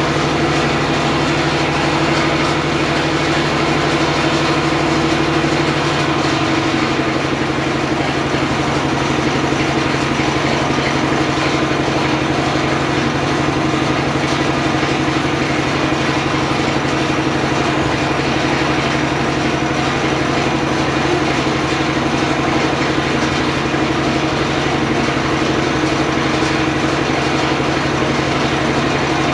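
Engine-driven homemade circular sawmill running steadily, its motor holding a constant hum.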